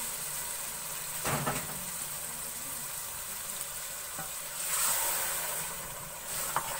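Boiled chana dal and beef masala sizzling in a pot while a wooden spoon stirs them, with a steady hiss and two louder stirring strokes, about a second in and near the five-second mark.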